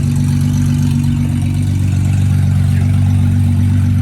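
Car engine idling steadily and loudly close by, with an even low pulse.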